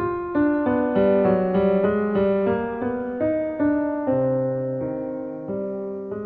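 Background piano music: a gentle melody of single notes and chords, each note struck and then decaying, a few notes a second.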